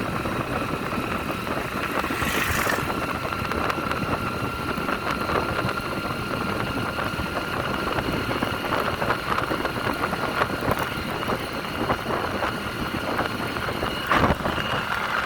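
Motorcycle engine running steadily while riding, with a constant rumble and a faint steady whine. There is a brief hiss about two seconds in and a sharp knock near the end.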